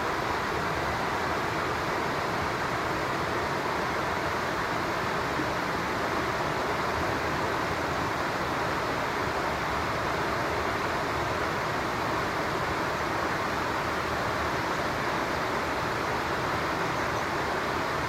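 Steady rushing of flowing stream water, an even hiss with no change in level.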